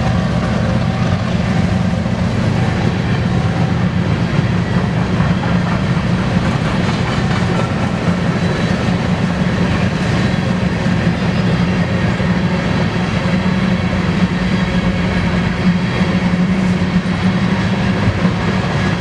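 A long BNSF grain freight train rolling steadily past at close range, its steel wheels running on the rails. The sound is loud and continuous, with no break.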